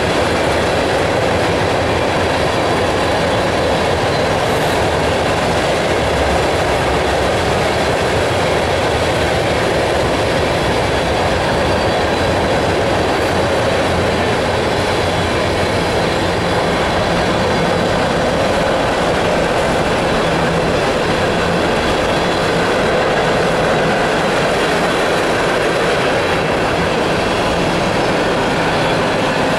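Freight cars (open-top coal hoppers and a tank car) rolling steadily past: a loud, continuous rumble and clatter of steel wheels on the rails.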